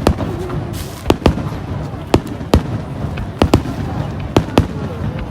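Aerial fireworks shells bursting in quick, irregular succession: about ten sharp bangs, some in close pairs, over a continuous low rumble.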